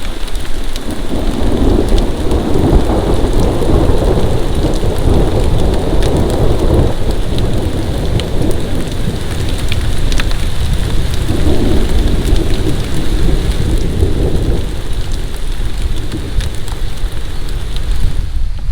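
Heavy rain falling steadily, with thunder rumbling low in two long rolls, the first from about a second in, the second a little past the middle.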